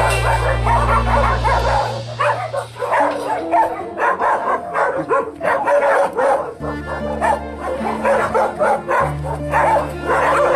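Dogs barking and yipping over background music, which has long held low bass notes that change every few seconds.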